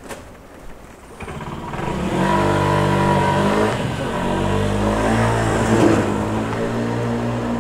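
A motor vehicle's engine running close by. It gets much louder about a second in and then holds steady, its pitch shifting in steps.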